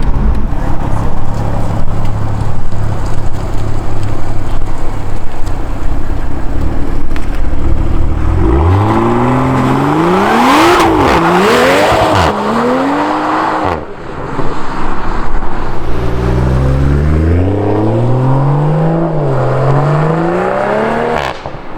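Tuned BMW M340i's B58 turbocharged inline-six with M Performance exhaust, running steadily, then pulling hard twice: engine pitch climbs and falls back at each quick upshift, the first pull about eight seconds in and the second from about two-thirds of the way through.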